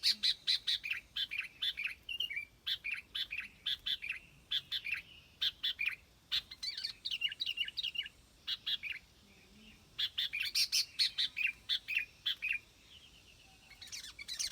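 Bulbul calling: runs of quick, clear chirps, broken by short pauses about two-thirds of the way through and again near the end.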